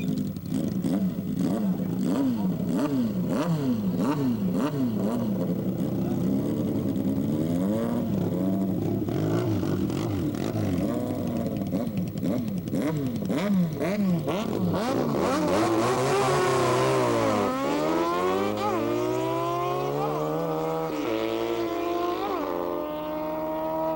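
Motorcycle engines revving in repeated quick throttle blips, then one accelerating hard through its gears, the pitch climbing in steps with a sharp dip about two-thirds of the way in.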